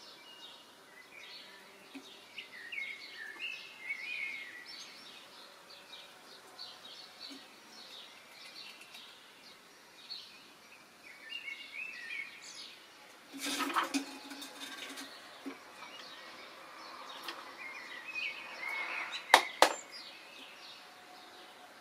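Small birds chirping and twittering on and off throughout. About two-thirds of the way through comes a short rustling, scraping burst. Near the end there are two sharp knocks in quick succession, the loudest sounds.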